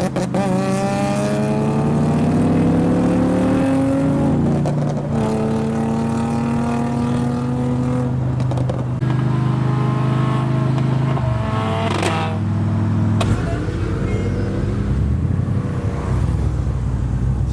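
A car engine running and pulling: its pitch climbs over the first few seconds, drops about four seconds in, then holds fairly steady with further shifts later. There are a couple of sharp clicks around twelve seconds in.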